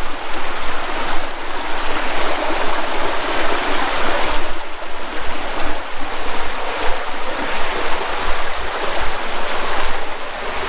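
River water rushing over stones in a loud, steady rush.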